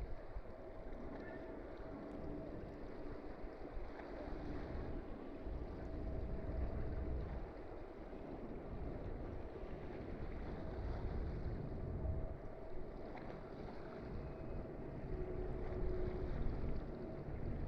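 Wind buffeting the microphone in uneven gusts, a low rumble, with a faint steady hum that drops out and returns.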